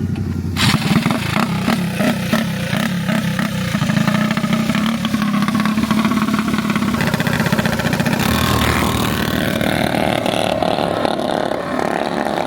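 Small mini bike engines revving hard as two bikes launch off the start line and pull away. A higher engine note comes in about eight seconds in.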